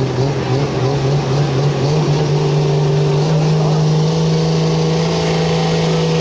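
A competition vehicle's engine running hard, its pitch rising about two seconds in and then holding steady at high revs.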